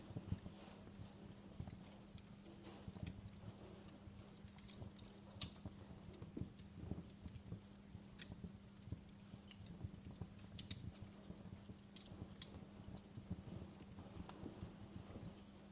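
Wood fire in a fireplace crackling, with irregular small pops and snaps over a low rumble and a steady low hum.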